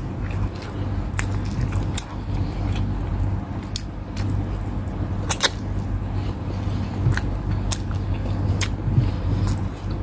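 Close-up eating by hand: chewing, with scattered short sharp clicks, over a steady low hum.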